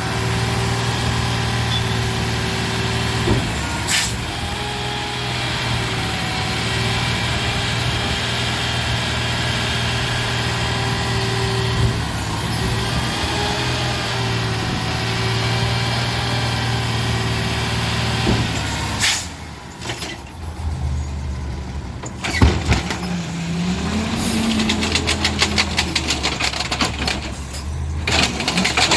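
Garbage truck running, its engine hum steady with a wavering whine above it. About two-thirds of the way through the engine sound drops away, leaving a few sharp knocks, a short rising-then-falling tone and a stretch of rapid ticking.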